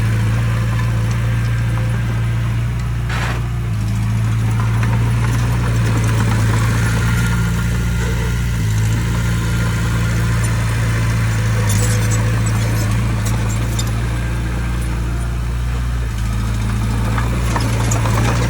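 Diesel engine of heavy earth-moving equipment running steadily, its engine note shifting a few times. A brief noise about three seconds in.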